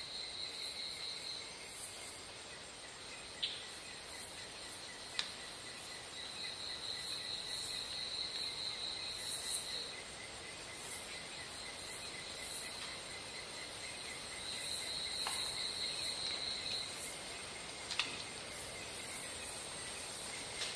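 Insects chirring: a high trill that comes and goes in spells of two to four seconds over a steady, higher buzz, with a few sharp clicks.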